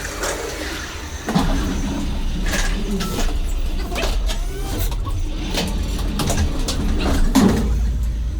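A vehicle engine running with a steady low rumble, with repeated sharp knocks and clatter throughout.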